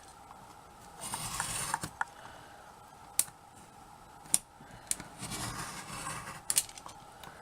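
Craft pieces being cut by hand: two rasping cutting strokes, about a second in and again near the end, with a few sharp clicks in between.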